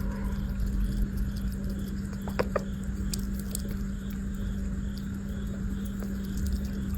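Light clicks and scratching from a small animal, two sharper clicks about two and a half seconds in, over a steady low hum.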